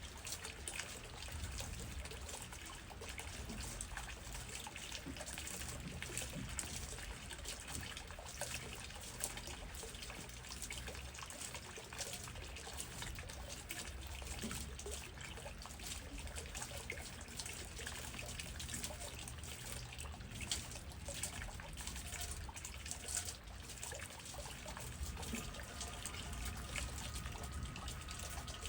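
Steady rain falling on trees, with many fine drop ticks and a low rumble of wind underneath.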